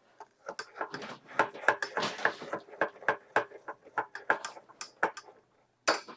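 A utensil stirring and scraping a thick, sticky flour-and-milk paste (tangzhong) in a saucepan, with quick irregular knocks and scrapes against the pan, several a second.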